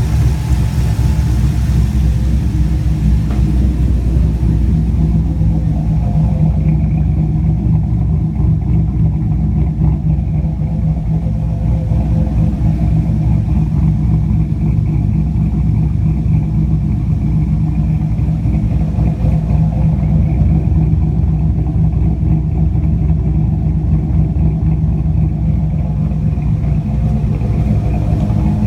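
Cammed 5.3-litre V8 with a Texas Speed stage 4 camshaft idling steadily at operating temperature, its idle tuned to about 925 rpm; the engine is running well and no longer stalling.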